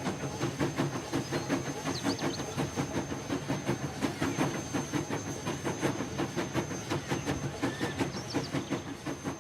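Added train ambience: a railway carriage rolling along, its wheels clicking over the rail joints in a quick steady rhythm over a continuous rumble.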